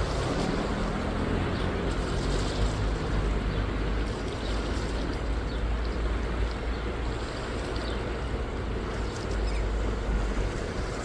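Steady rush of moving water with wind buffeting the microphone. A low boat-motor hum sounds under it for the first few seconds and fades away.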